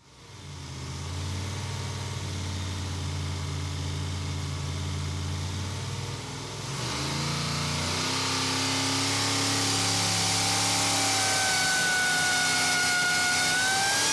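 Harrop TVS2650-supercharged big-block V8 running on an engine dyno, fading in. Its note shifts about seven seconds in, and a high whine rises in pitch near the end.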